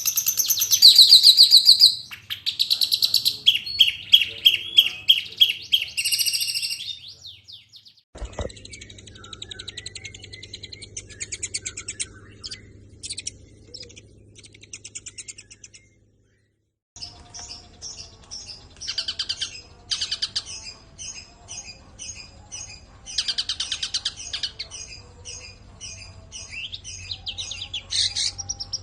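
Long-tailed shrike (cendet) singing a varied chattering song of rapid high trills and repeated sharp chirps. The song is loud at first, quieter after about 8 s, breaks off for a second near the middle, then goes on in short repeated phrases.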